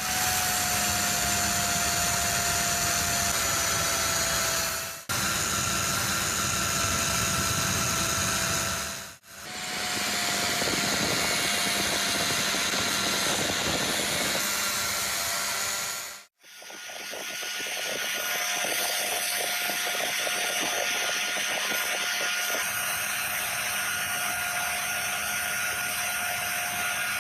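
Electric power tool running with a steady motor whine. It breaks off briefly three times, and after the later breaks it winds back up to speed.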